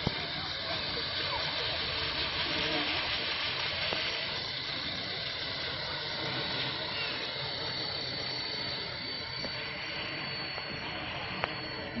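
Radio-controlled scale model helicopter in flight: a steady high whine from its rotors and motor under a constant rushing hiss of strong wind.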